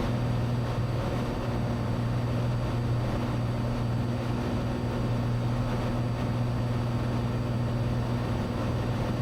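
Steady drone of a Cessna 182's piston engine and propeller in level flight, heard inside the cabin as an even low hum with a rushing noise over it.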